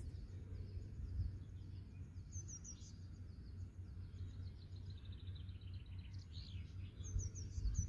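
Songbirds chirping: short runs of quick high notes about two and a half seconds in and again near the end, with fainter calls between, over a steady low rumble.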